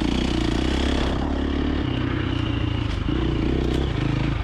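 2024 KTM 350XC-F dirt bike's single-cylinder four-stroke engine running under load on a trail, its pitch shifting a few times as the throttle opens and closes, with the bike's chassis rattling over the terrain.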